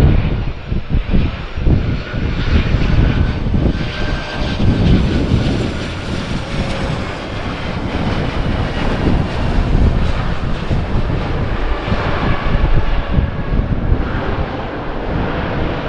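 Boeing 737-800's CFM56 turbofan engines whining as the airliner flies past on approach, the whine climbing in pitch over the first half. Strong gusting wind buffets the microphone throughout.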